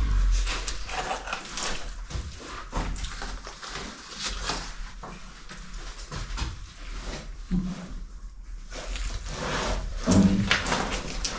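Cave suit and gear scraping and rustling against rock as a caver squeezes through a tight passage, in irregular scrapes and knocks. A couple of short grunts come about two-thirds of the way in and near the end.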